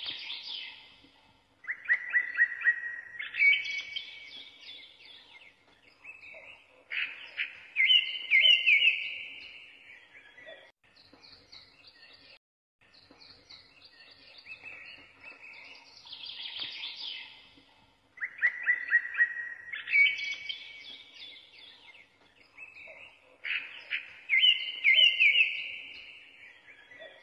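Birds chirping and trilling in short phrases, the same sequence repeating about every 14 seconds as a looped background recording of birdsong.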